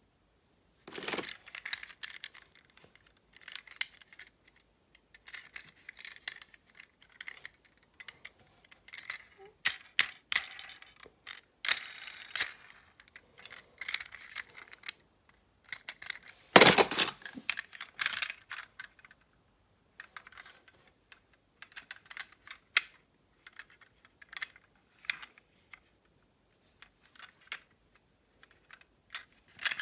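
Irregular clicks and clattering of small hard objects, with one louder knock just past halfway.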